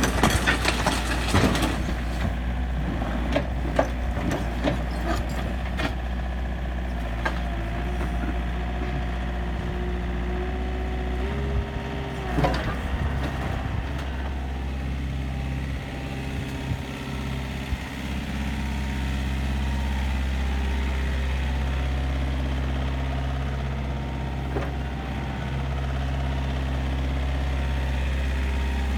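Komatsu PC50UU-2 mini excavator's diesel engine running steadily, with a cluster of clicks and knocks in the first few seconds. A tone rises slowly in pitch until about 12 s in, the engine note changes, and there is a single sharp knock.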